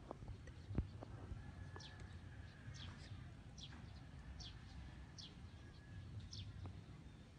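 A bird repeating short, high, falling notes about once a second, starting about two seconds in, over a faint low rumble. A single sharp knock about a second in.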